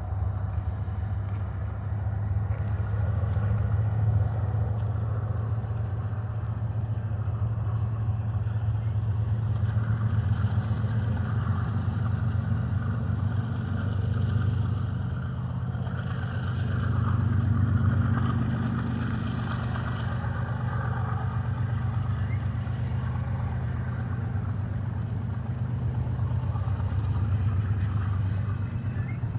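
BNSF double-stack container train rolling slowly past as it gets moving again after a stop: the well cars' wheels clatter on the rails over a steady low rumble. The clatter grows louder about a third of the way in.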